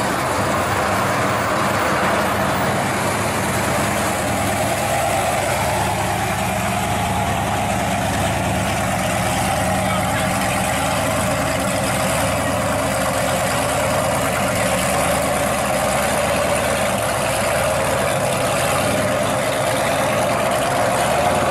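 A 1972 Pontiac GTO's V8 idling and running at low speed with a steady exhaust note, with no sharp revs. Voices chatter in the background.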